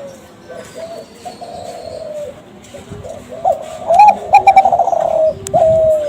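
Kelantan-strain spotted dove (derkuku) cooing in the competition-bred style: a run of low coo notes that grows louder and quicker about halfway through, ending in a longer drawn-out note. This is the kind of song used as a lure call to set other doves answering.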